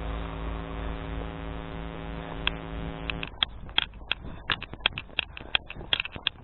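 A steady engine hum that cuts off suddenly about three seconds in, followed by a regular, sharp ticking at about three ticks a second.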